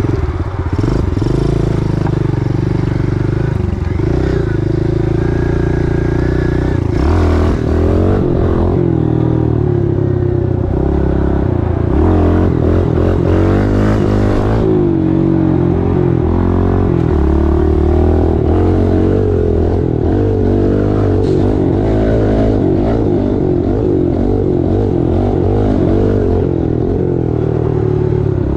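Pit bike engine running while being ridden, its pitch rising and falling again and again with the throttle and gear changes.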